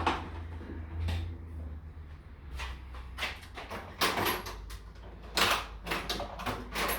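A run of sharp clicks, clanks and knocks from tools and parts being handled during work on a motorcycle, coming thicker in the second half, over a low steady hum.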